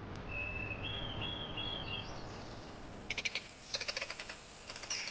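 Birds calling faintly in the wild: a thin whistled note that steps up in pitch over the first two seconds, then three short bursts of rapid clicking chatter.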